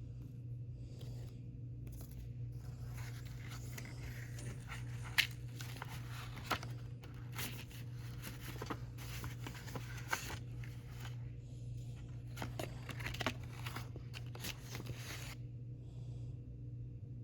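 Album packaging being torn open and crinkled by hand, with scattered sharp crackles and clicks, over a steady low hum. The handling stops shortly before the end.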